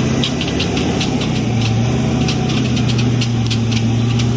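A vehicle engine running at a steady speed, with a scatter of light clicks over it.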